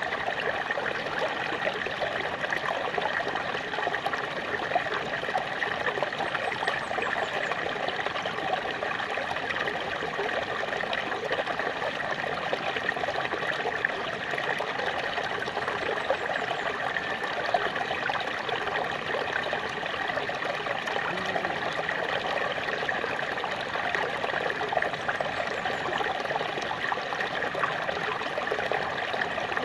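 Small waterfall: water pouring and splashing steadily over rocks, a constant rushing with fine trickling detail.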